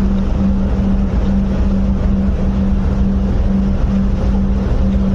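Ship's machinery running steadily: a constant low rumble with a steady hum over it.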